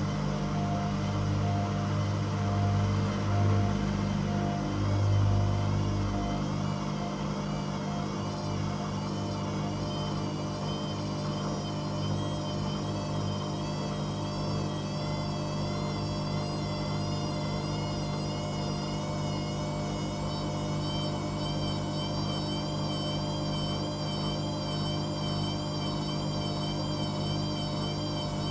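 Washing machine running mid-program with a steady motor hum. A heavier low rumble for the first six seconds or so gives way to a quieter hum, and a faint high whine wavers up and down.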